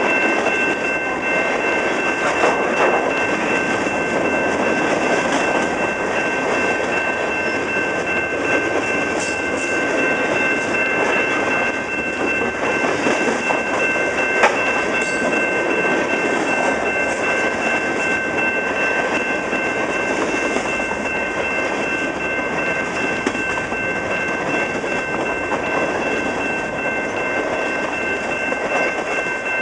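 Freight cars (covered hoppers and tank cars) rolling past at close range: a steady rumble and clatter of steel wheels on the rail joints, with a thin, steady high ringing tone above it and one sharp clank about halfway through.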